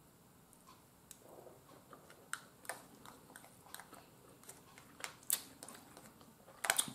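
Faint chewing of a mouthful of fried rice: scattered soft mouth clicks and smacks, with light taps of a metal fork in a plastic takeout tray.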